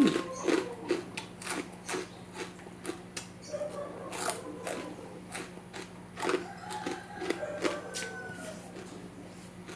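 Chewing crunchy chicharon (fried pork cracklings): a string of sharp, irregular crunches, about two to three a second, thinning out near the end.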